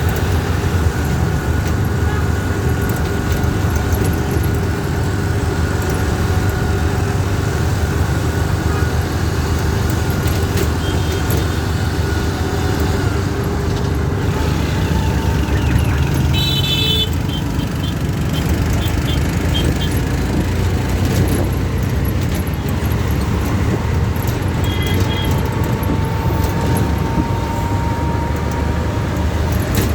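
Steady low rumble of city traffic. A short high horn toot a little past halfway is followed by a few quick beeps, and another brief toot comes several seconds later.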